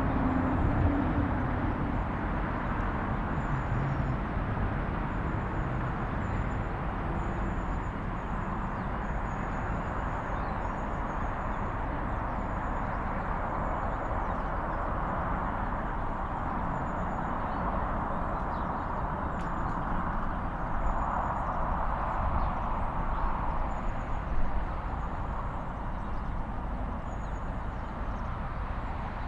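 Steady outdoor ambience: a continuous rumble and hiss, like distant road traffic, with faint high bird chirps repeating over it.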